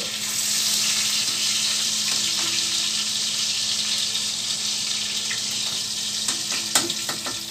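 Chicken liver and gizzard sizzling as they fry in oil in a metal wok, a steady hiss. Metal tongs click against the pan a few times near the end as the pieces are turned.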